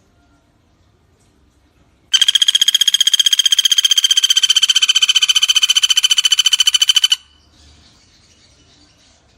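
Common flameback woodpecker (pelatuk bawang) giving one long, rapid rattling trill of about a dozen notes a second. It starts about two seconds in, lasts about five seconds and sags slightly in pitch. A faint insect chorus runs behind it.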